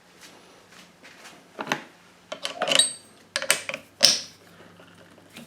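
Metal tools and parts being handled and set down: a string of sharp clicks, clinks and rattles, busiest in the middle.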